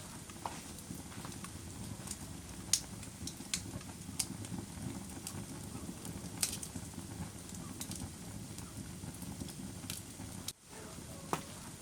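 Wood fire crackling in a fireplace: a steady low rumble of flames with scattered sharp pops, the loudest a few seconds in. The sound dips out for a moment near the end.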